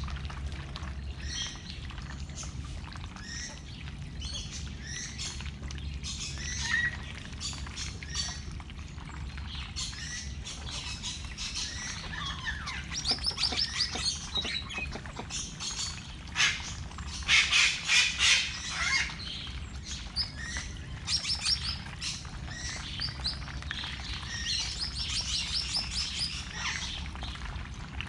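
Birds chirping and twittering throughout. There are a few quick rattling series in the middle, the loudest moments, over a steady low hum.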